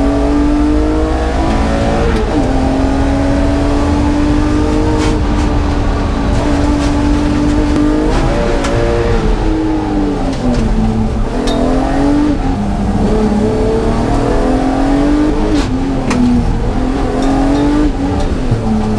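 BMW E36's M54B30 3.0-litre straight-six engine being driven hard on a race track. Its note holds high for several seconds, then drops and climbs again several times as the car shifts and slows for corners.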